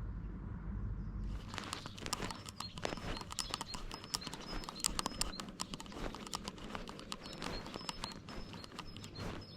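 Irregular crackling and scratching from a cat moving with a GoPro strapped on, starting about a second and a half in after a low rumble.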